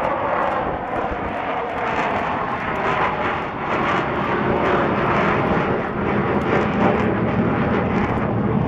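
Engines of a large fixed-wing aircraft flying past, a loud, steady sound with a tone that falls slowly in the first second.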